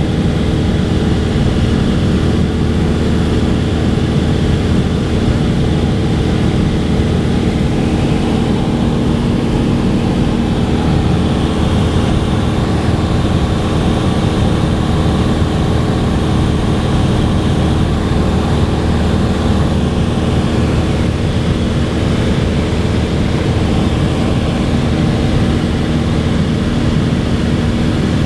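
Cessna 182's piston engine and propeller running steadily at constant power, an even drone with no change in pitch or loudness.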